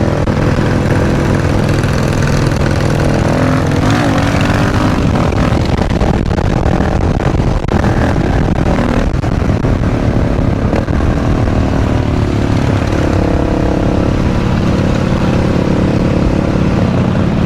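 Supermoto motorcycle engine running steadily under way, its pitch rising and falling gently with the throttle, with wind rush over the microphone.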